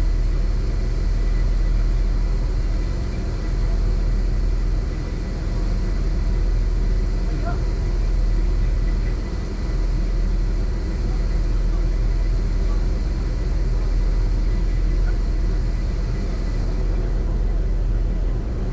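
Steady low rumble of a ferry's engines aboard the vessel, with even noise above it.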